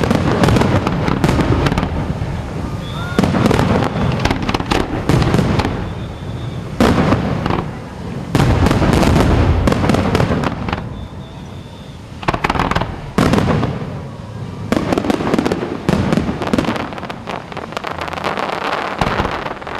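Fireworks display: rapid volleys of bangs and crackling come in about seven clusters, each lasting one to three seconds with short lulls between them.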